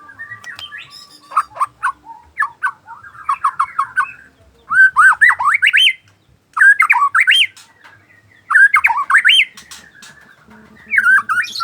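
Murai songbird singing: loud phrases of quick whistled notes sweeping up and down, delivered in separate bursts with short pauses between them, after some softer chattering notes at the start.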